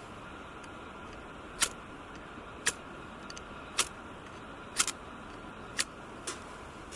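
Sharp, short clicks about once a second, one of them doubled, over a steady hiss.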